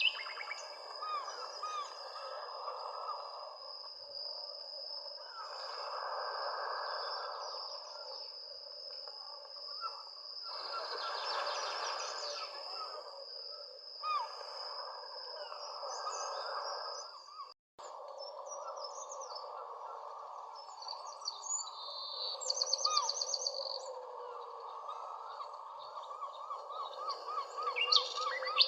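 Many birds chirping and calling at once in a dense, continuous chorus, with a few quick high trills breaking through. A thin, steady high tone runs beneath until about two-thirds of the way in, where the sound drops out for an instant.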